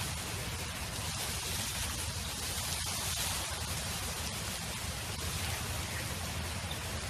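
Wind blowing across an open field: a steady hiss over a low rumble.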